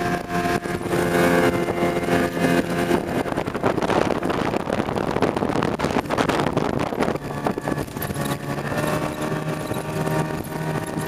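Bass boat outboard motor running under way. Its note holds steady, is swamped by a rush of wind and water noise in the middle, then comes back at a slightly lower pitch.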